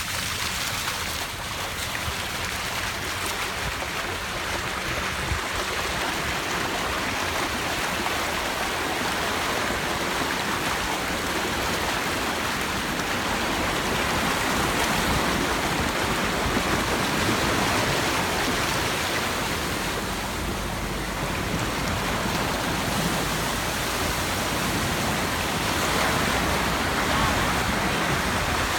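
Floodwater rushing and flowing steadily, a continuous churning rush that swells a little in the middle and near the end.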